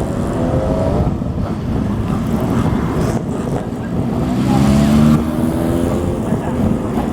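Motorcycle exhausts revving as bikes ride past one after another, with one engine climbing in pitch and loudest about four to five seconds in.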